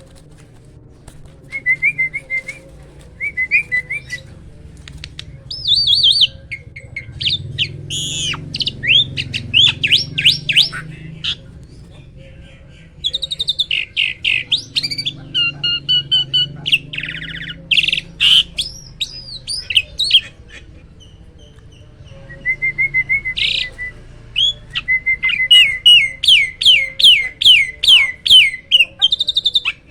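A hybrid jalak starling singing loudly in phrases: whistles, chatter and sweeping notes separated by short pauses. Near the end comes a fast series of repeated sweeping whistles, about three a second.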